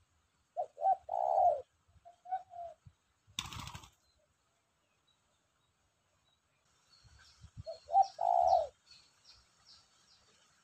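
Spotted dove (tekukur) cooing: a phrase of short notes ending in a longer coo about a second in, a couple of short coos after it, and the same phrase again near the end. A short burst of rustling noise sounds between them, and a small bird chirps faintly and high in the last seconds.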